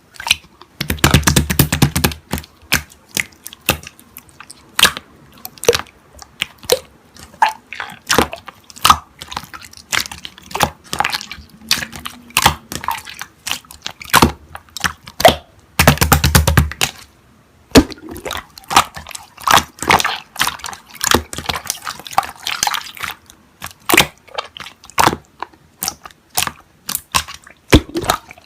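Slime being squished and played with by hand: a quick, irregular run of wet clicks and pops, with two louder squelching presses, one about a second in and one around sixteen seconds.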